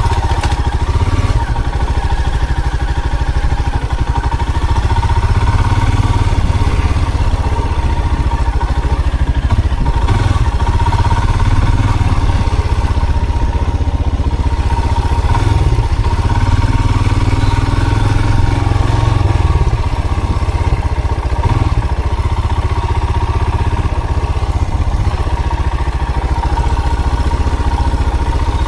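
A motor vehicle driving steadily: a constant low engine and road rumble with a thin, steady high whine over it.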